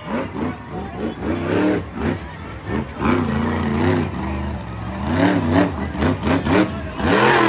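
Monster truck engine revving hard over and over, its pitch repeatedly climbing and dropping as the truck does its freestyle run, with a loud surge near the end.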